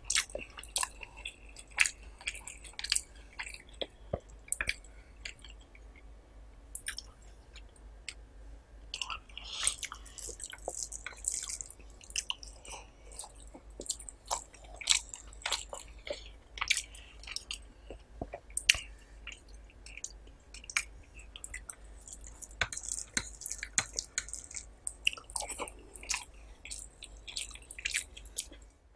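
Close-up eating sounds of a person eating rice with curry and gravy: steady chewing with wet smacks and clicks of the mouth, busiest about a third of the way in and again near the end.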